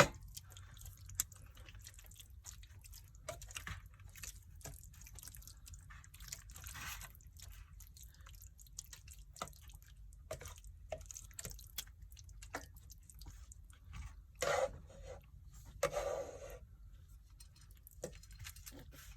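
Tomato-based beef goulash simmering in an electric skillet: scattered small bubbling pops and drips over a low steady hum, with two louder short bursts late on.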